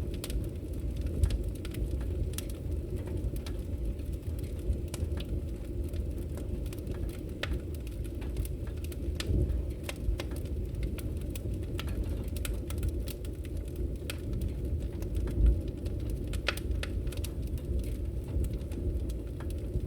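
Wood fire burning: a steady low rumble with frequent small, irregular crackles and pops, one louder pop about fifteen seconds in.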